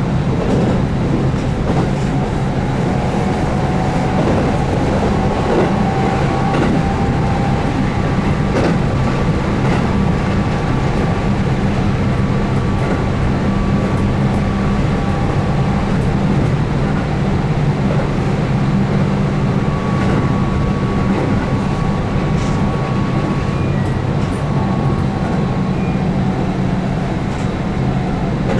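Keihan 8000 series electric train running at speed, heard from inside the car: a steady rumble of wheels on rail under the low hum of its DC traction motors, with a few short clicks from the track.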